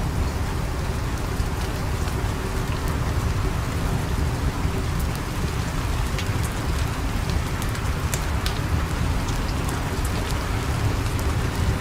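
Steady rain with a crackling wood fire: an even hiss of rain, with scattered sharp crackles over it.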